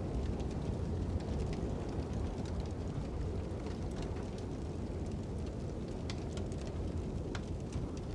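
Crackling fire with wind blowing: a steady low rumble of wind under scattered small pops and crackles.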